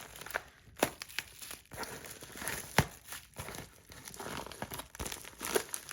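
Packaging being crinkled and torn open by hand, an irregular crackle broken by scattered sharp clicks and snaps.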